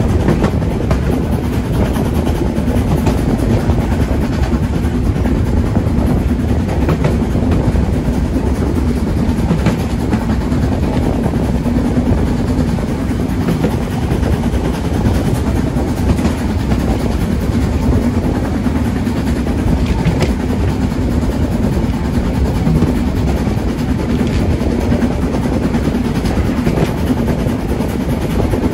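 Train of the Harz narrow-gauge railway running along the track: a loud, steady rumble with a steady hum and faint clicks of the wheels.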